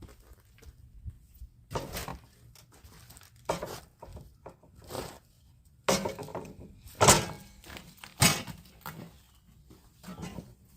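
Irregular knocks, thumps and rustling from work materials being handled, with the loudest knocks between about six and eight and a half seconds in.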